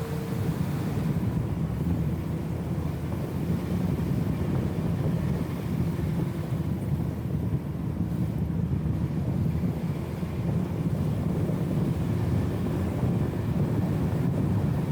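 BMW E34 M5 Touring's straight-six engine and road noise on a steady cruise, a low even drone heard muffled through the camera's anti-wind filter.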